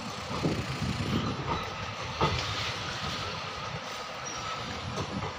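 Indian Railways passenger train coach running along the track: a steady rumble with several knocks of the wheels over rail joints.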